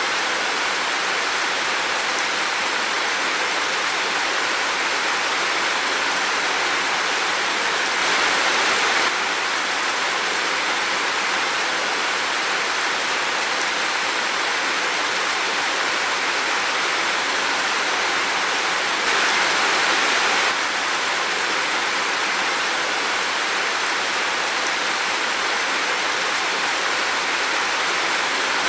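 Heavy rain falling, a steady even hiss, briefly louder for a second or so about eight seconds in and again about nineteen seconds in.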